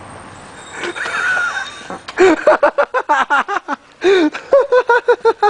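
A person laughing hard in rapid, high-pitched bursts of several a second. The laughter starts about two seconds in and breaks off briefly near the end.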